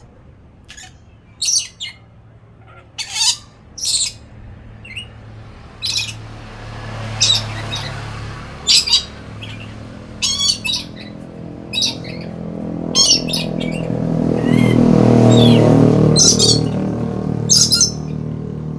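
A pet lory (burung nuri) giving short, sharp, high squawks, roughly one every second or so. A low rumble swells underneath from about a third of the way in, is loudest near the end and then eases.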